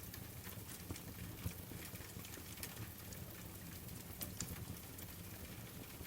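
Wood fire crackling, with irregular sharp pops, over a steady hiss of falling rain.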